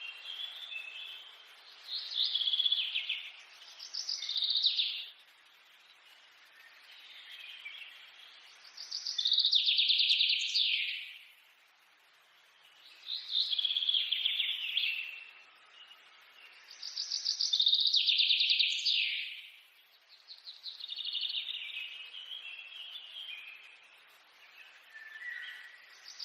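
A songbird singing: loud phrases of rapid trilled notes, high-pitched, come back about every four seconds, with softer chirps between them.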